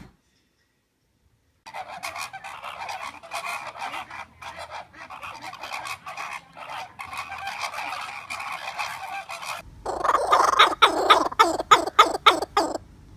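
A bird calling harshly and repeatedly, honking and squawking. After a long stretch of continuous calling there is a sudden change to a louder run of rapid calls, about three a second, which stops shortly before the end.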